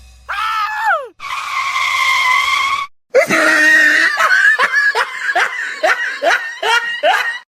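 A high-pitched voice: a short falling cry, then a held high cry lasting about two seconds, then a fast run of about nine short cries that each fall in pitch.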